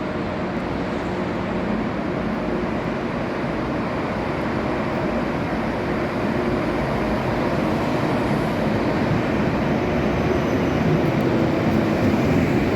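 A train running through the station: a steady rumble that slowly grows louder.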